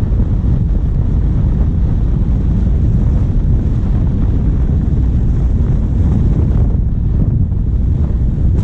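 Steady low rumble of wind buffeting a bonnet-mounted camera's microphone, over a diesel vehicle's engine and tyres while driving.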